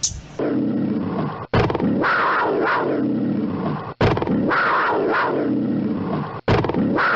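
A loud animal call played three times in a row. Each repeat lasts about two and a half seconds and is cut off abruptly before the next begins.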